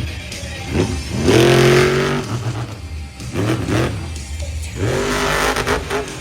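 Monster truck engine revving hard in three quick bursts, its pitch climbing sharply each time, with music playing underneath.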